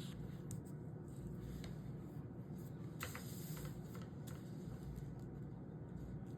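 Scratch-off lottery ticket being scratched: light scraping and clicking strokes, with one longer scratch about three seconds in, over a steady low hum.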